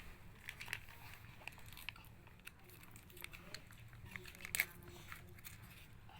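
Scattered light clicks and crinkles of handling food and its packaging over a low steady hum, with one sharper click about four and a half seconds in.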